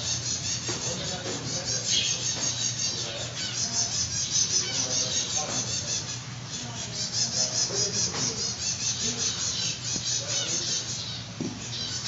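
A chorus of many small birds chirping and twittering rapidly and continuously, over a steady low hum.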